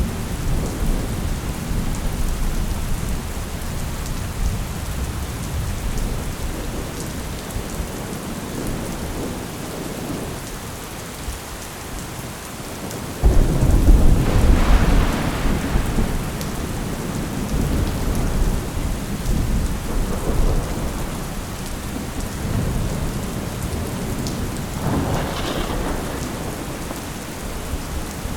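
Thunderstorm: steady rain with a deep rumble of thunder fading away. About halfway through, a sudden loud thunderclap breaks and rolls off over several seconds, and a fainter clap comes near the end.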